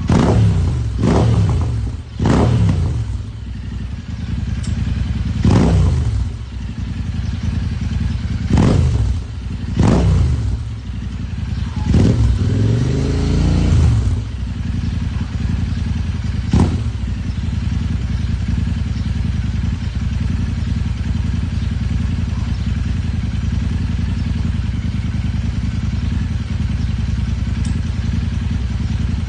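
A motor or engine running with a steady low rumble. In the first half it gives several brief sweeps that fall in pitch, then it settles into an even drone.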